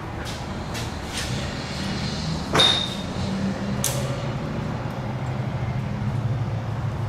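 A sharp metallic clink with a brief high ringing about two and a half seconds in, and a few lighter ticks, over a steady low hum.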